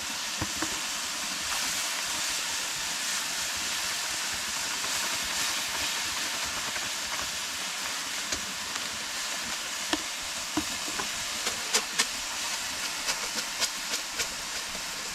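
Food frying in hot oil: a steady sizzle with scattered pops that come more often in the last few seconds.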